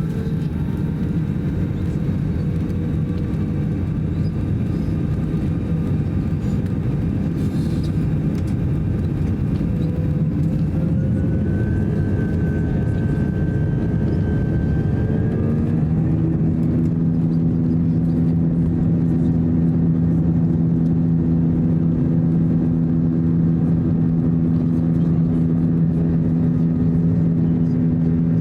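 Airbus A321's two IAE V2500 turbofan engines heard from inside the cabin, running with a steady hum. A little past halfway their pitch rises and settles into strong steady tones as thrust comes up for takeoff, growing slightly louder.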